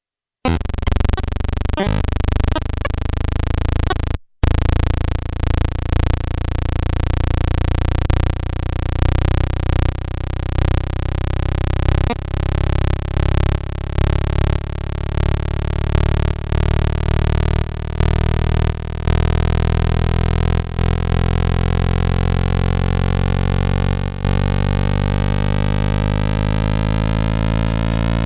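Spacecraft radio or plasma wave data played back as sound: a dense, buzzing drone scattered with clicks, its pattern of tones slowly rising in pitch. There is a brief dropout about four seconds in.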